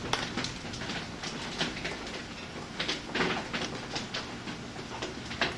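Steady rain falling, with irregular sharp taps of drops striking a hard surface close by.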